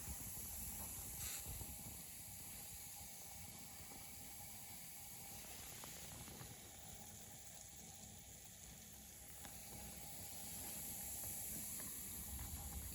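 Faint steady hiss of steam from a Rocking Whale BL1K single-cylinder double-acting model steam engine running on steam, with a low rumble underneath.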